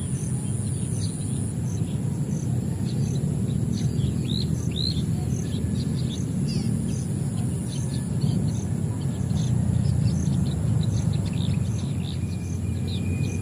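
Small birds chirping in many short calls, over a steady low rumble of background noise. A steady high insect drone with a regular ticking, about two a second, runs beneath the birdsong.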